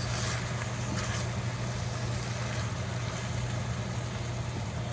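Chicken strips sizzling in a hot frying pan, an even hiss over a steady low hum.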